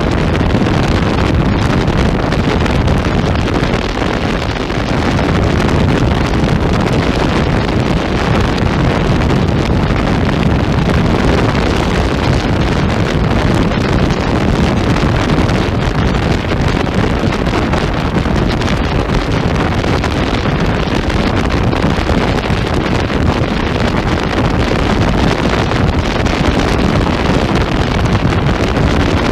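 Hyosung GV125 S Aquila's small V-twin engine running steadily through an aftermarket Sound Control exhaust while the bike is ridden, with heavy wind noise on the microphone.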